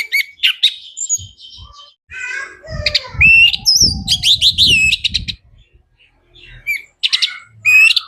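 Orange-headed thrush singing in quick phrases of varied, sliding whistled notes, with a short break about six seconds in.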